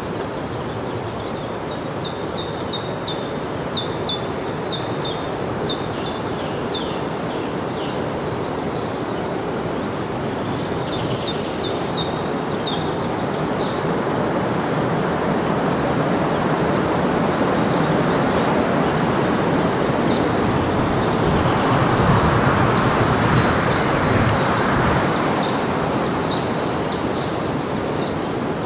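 Outdoor ambience: small birds chirping in quick bursts in the first few seconds and again around twelve seconds in, over a steady rushing background that swells to its loudest a little past twenty seconds and then eases.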